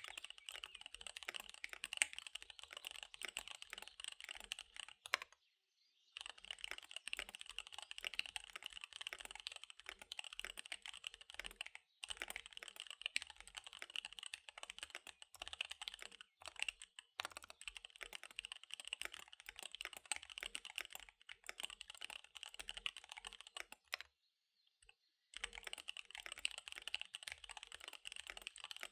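Fast typing on a KBD75 V3 mechanical keyboard with SP-Star Dark Magic Girl tactile switches and DSA Magic Girl keycaps: a dense, rapid run of key clacks that breaks off briefly several times, longest around five and twenty-four seconds in.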